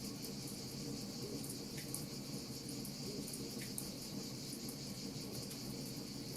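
Steady outdoor ambience: a continuous high insect-like trill, as of crickets, with scattered faint crackles and a couple of small pops from a wood fire, over a low steady rush.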